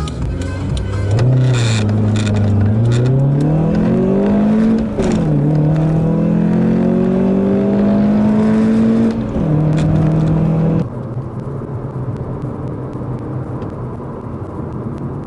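A small four-cylinder petrol car engine accelerating hard at full throttle, its note climbing through the revs, then dropping sharply at gear changes about five and nine and a half seconds in. Near eleven seconds the engine note cuts off, leaving a steady rushing noise.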